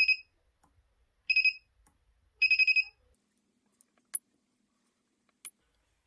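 Mini battery spot welder beeping in short high electronic beeps: one at the start, another about a second later, then a quick run of beeps. These are followed by two sharp snaps of spot welds on the lithium cells' nickel strip.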